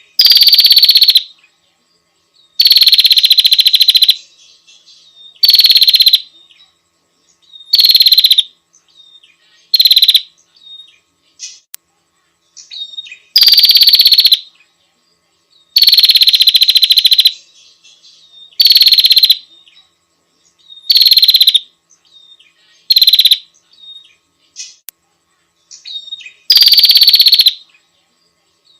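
Female prinia (prenjak) giving its rapid, buzzy rattling call: about eleven loud bursts, each up to a second and a half long and two to three seconds apart, with faint short chirps between them. This is the call a female prinia uses to summon a male.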